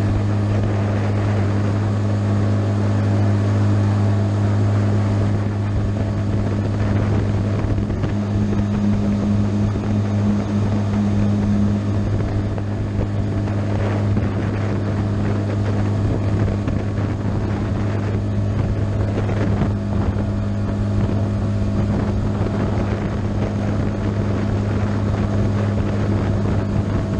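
Small outboard motor on a Gheenoe running at a steady speed as the boat cruises, with a constant low hum and wind noise on the microphone.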